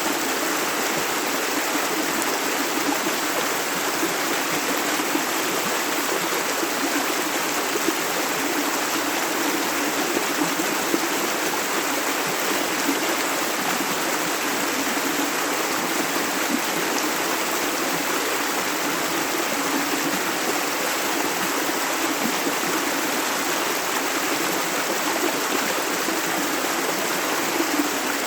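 Clear river or stream water flowing over stones, a steady rushing and babbling.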